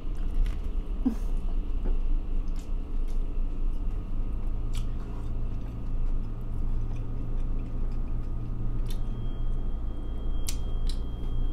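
A person chewing a big mouthful of meatless burger, with scattered small mouth clicks, over a steady low hum.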